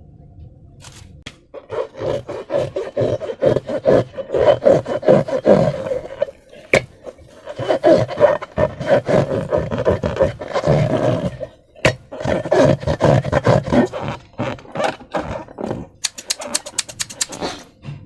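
Rubber balloons and slime being handled and squeezed: rubbing, squeaking rubber with many short sticky clicks, starting about a second and a half in, and a quick run of sharp crackles near the end.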